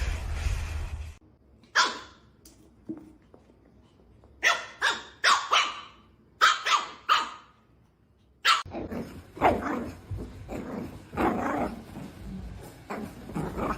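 Dog barking in quick groups of two to four sharp barks. About nine seconds in the background changes, and more barking follows at a lower level.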